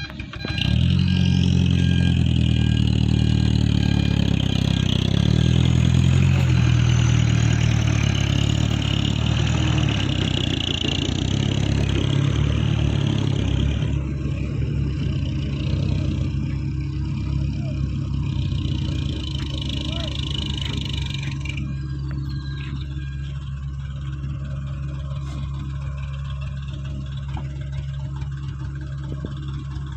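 Truck engine starting abruptly and running loud, easing to a lower steady run after about ten seconds. A high whine runs with it and stops suddenly a little past twenty seconds.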